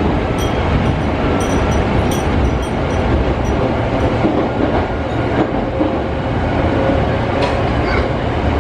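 Nose Electric Railway wind-chime train: fūrin wind chimes tinkle now and then over the steady rumble and rail clatter of the moving train. The tinkles come several times in the first few seconds and once more near the end.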